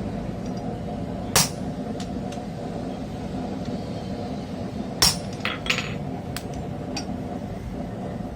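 A hammer striking steel twice, a few seconds apart, each a sharp ringing clang, with a few lighter metallic clinks in between, over a steady low hum.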